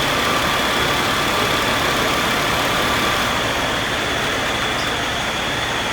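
Caterpillar 3126 inline-six diesel engine running steadily, with a steady high whine over the engine noise.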